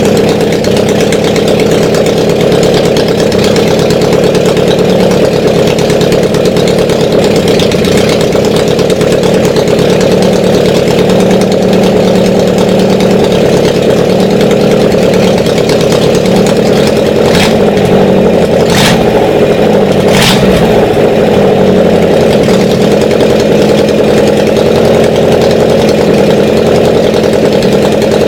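ZAZ-968 air-cooled V4 engine running steadily at idle, freshly started, with three short sharp clicks near the middle.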